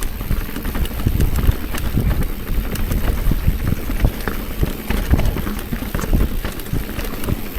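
Mountain bike riding down a rough trail, the bike rattling and knocking over bumps in quick, irregular thumps, with a steady rumble of wind on the helmet camera's microphone.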